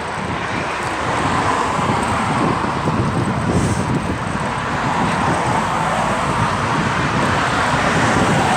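Steady outdoor rushing and rumbling noise, like road traffic, with no clear separate events.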